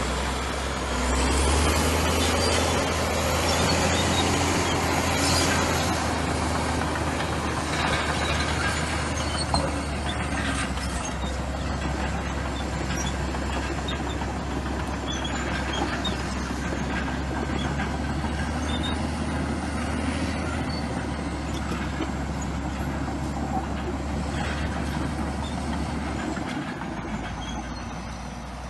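Komatsu bulldozer's diesel engine running steadily, with scattered small clicks and squeaks above the steady hum. The engine eases off briefly near the end.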